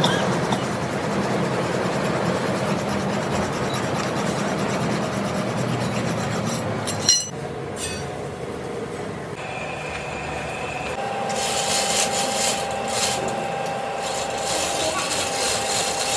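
Metal being machined on a lathe, a compressor crankshaft being cut, with a steady rasping noise. About seven seconds in there is a sharp click and the noise changes, and in the second half a steady tone runs under it.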